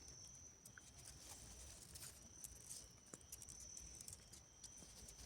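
Near silence: faint outdoor night ambience with a steady high-pitched tone that breaks off briefly twice, and a few soft ticks.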